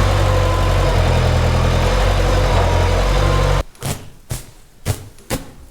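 Tractor engine idling steadily, then cut off abruptly a little over halfway through. A run of sharp crunches follows, about two a second.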